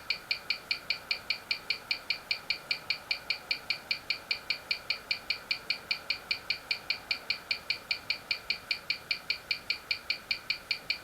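Mechanical watch movement ticking steadily, about five even ticks a second.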